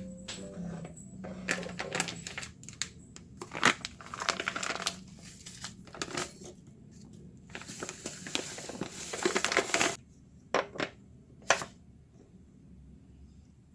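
Kitchen handling sounds: a run of light clicks and knocks, then a few seconds of crinkling rustle, then three separate clicks.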